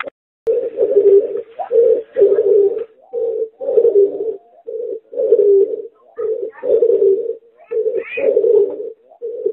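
Hybrid of a domestic pigeon and a spotted dove cooing: a run of low coos repeated one after another with only short breaks, starting about half a second in.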